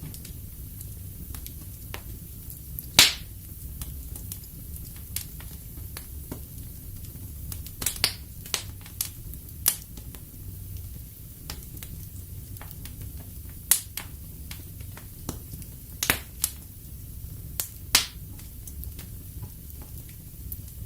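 Wood fire burning in a fireplace: irregular sharp crackles and pops of burning logs over a steady low rumble of the flames, with the loudest pop about three seconds in and a cluster of pops in the second half.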